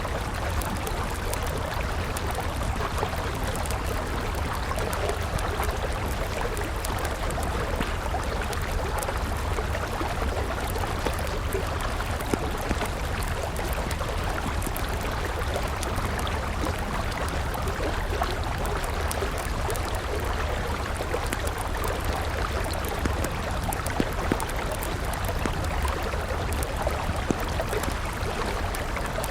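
River water flowing steadily, with a wood campfire crackling over it in small scattered pops and a few louder snaps.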